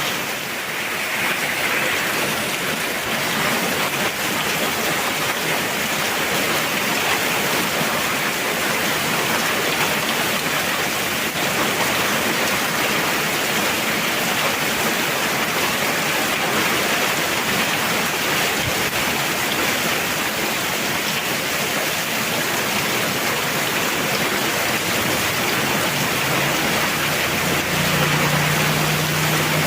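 Heavy rain pouring down in a steady, dense hiss. A faint low hum joins in the last few seconds.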